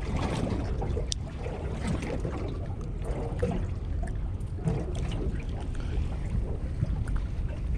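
Seaside ambience: wind buffeting the microphone over sea water washing against the shore rocks, with a few faint distant voices.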